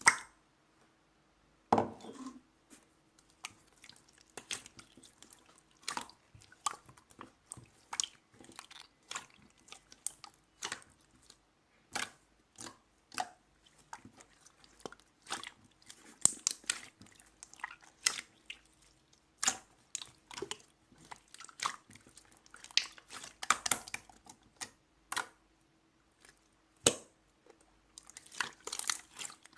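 Clear slime being squished and pressed by hand: irregular wet clicks, crackles and small pops, a few every second, with a sharper pop near the start.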